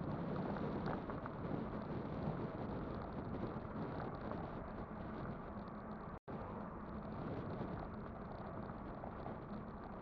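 Riding noise of an e-bike moving along: steady wind rush on the microphone mixed with tyre noise. The sound drops out completely for a split second about six seconds in.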